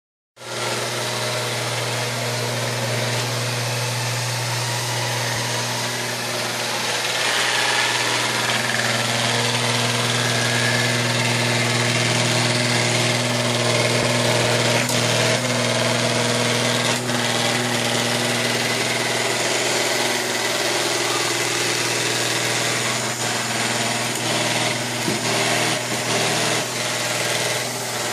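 Neato Botvac robot vacuum running steadily: a constant motor hum with brush and suction hiss. Short knocks come now and then, more often in the last few seconds, as the robot bumps against a door.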